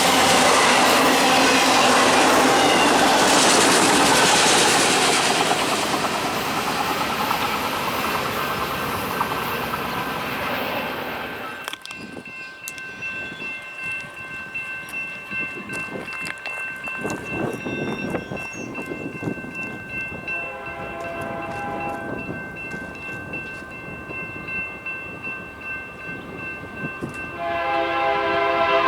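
Freight train passing close by, a loud rumble of wheels and cars that fades, then cuts off abruptly. After it, a quieter stretch with steady high tones, and a diesel locomotive horn sounding in repeated blasts that grow loud near the end.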